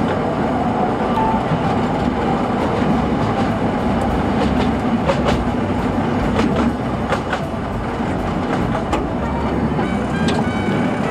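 Narrow-gauge mountain tourist train running along its track, a steady rumble with scattered sharp clicks of the wheels over the rails.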